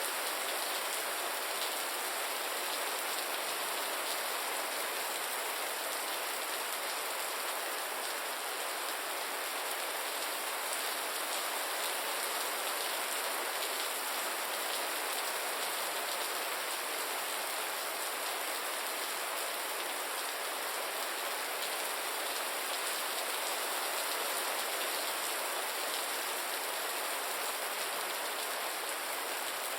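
Gentle, steady rain: an even hiss of many fine drops that holds unchanged.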